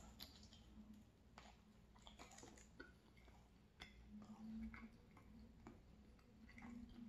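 A bite into a slice of pizza followed by close-miked chewing: irregular soft mouth clicks and smacks, over a faint steady low hum.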